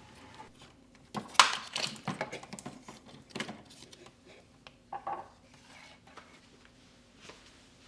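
Household objects being handled and set down: a quick run of light knocks and clinks, then single knocks about three and a half and five seconds in.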